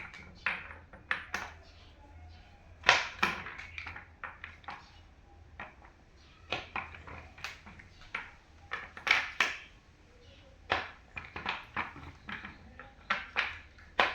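Office chair parts knocking and clicking as they are handled and fitted together during assembly: many sharp taps and clacks in irregular clusters, over a faint low hum.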